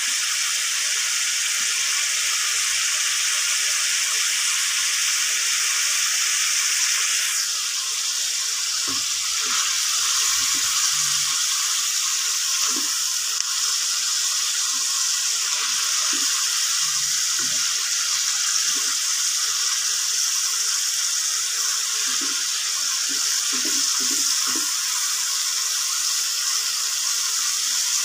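Chicken curry gravy sizzling in a non-stick pan as a steady hiss, with soft scrapes and taps of a spatula as it is stirred, mostly in the middle and later part.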